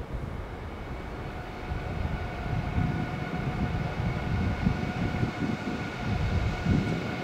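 Train moving through the station: an uneven low rumble of wheels on rail with occasional knocks, getting a little louder about two seconds in, under a steady whine.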